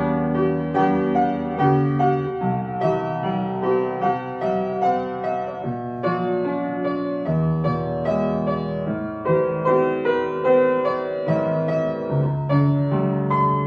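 Slow, gentle piano music: soft notes struck in an even pulse over held low bass notes.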